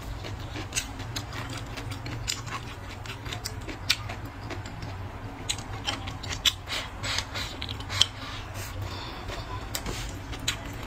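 Close-up eating sounds: chewing and wet mouth clicks and smacks, irregular, with a few sharper clicks about four, six and a half and eight seconds in, over a low steady hum.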